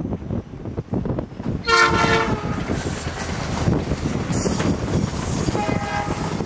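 Alaska Railroad diesel locomotive passing with a steady rumble of wheels and cars. A chord horn sounds a loud blast about two seconds in, then a shorter, lower-pitched blast near the end.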